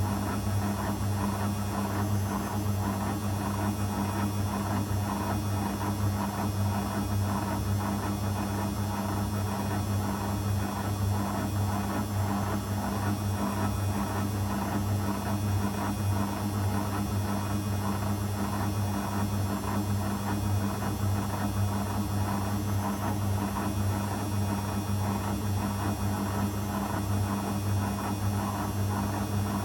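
Zanussi FL984CN front-loading washing machine running partway through its 35° wash programme: a steady low hum with a rough, even noise above it.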